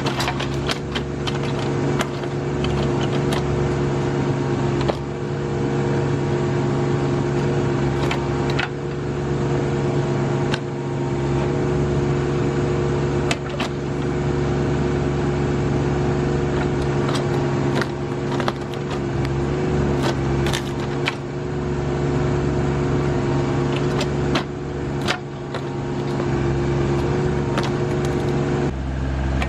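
Rural King RK25 subcompact tractor's diesel engine running steadily while its backhoe digs around a tree stump, with frequent sharp cracks and knocks of the bucket tearing through roots and dirt.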